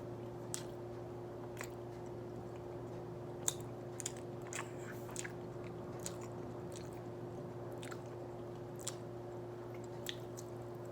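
A person biting and chewing a soft glazed doughnut: scattered short, soft mouth smacks and clicks. A steady low hum runs underneath.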